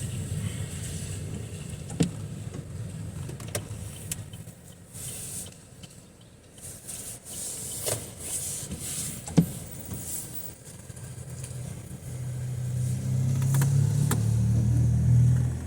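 Car engine running in street traffic, the rumble swelling in the last few seconds as a vehicle comes close, with patches of tyre hiss and a few sharp clicks.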